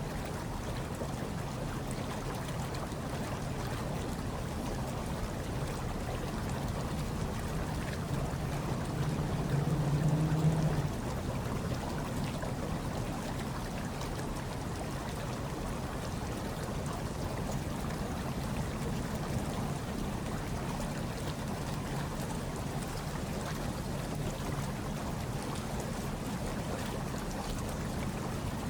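Hot tub water bubbling and churning steadily over a low rumble, swelling louder for about two seconds near the middle.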